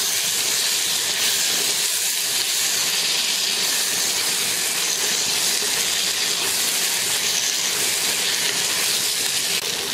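Chopped drumstick, beans and potato sizzling steadily in hot oil in a nonstick pan as they are stirred with a wooden spatula.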